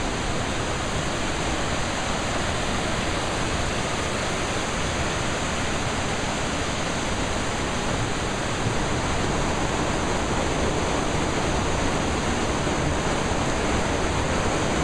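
Steady rushing of fast mountain river water through the rocky gorge, close by and even throughout.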